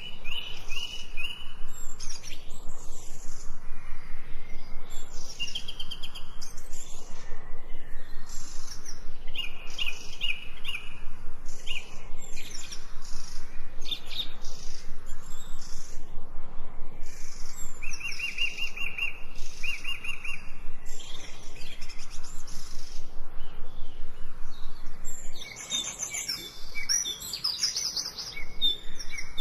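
Several songbirds chirping and singing in short repeated trills, over a fast, regular ticking that runs throughout. A burst of quicker, higher calls comes near the end.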